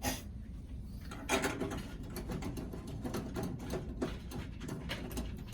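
Small irregular clicks and light scraping from handling a small light bulb at its socket under a microwave.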